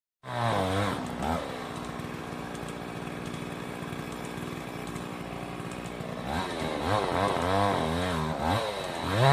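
Chainsaw engine running, revved up and down in quick surges near the start and again over the last three seconds, running steadily in between.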